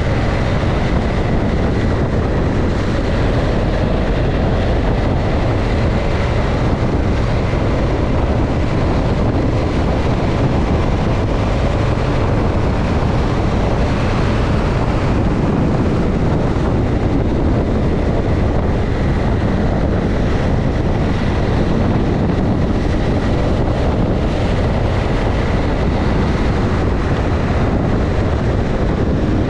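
Motorcycle running at a steady road speed, its engine mixed with heavy wind rush over the microphone and road noise, with no marked changes.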